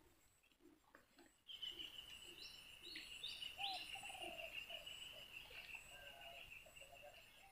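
Faint bird calls. A steady high-pitched note starts suddenly about one and a half seconds in and carries on, with a few short high chirps over it and some brief lower notes beneath.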